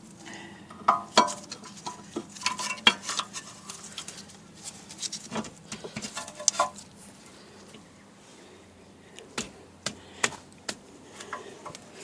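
Sharp metallic clicks and clinks, some ringing briefly, as new brake pads and their shims are fitted into the pad holders of a rear brake caliper carrier.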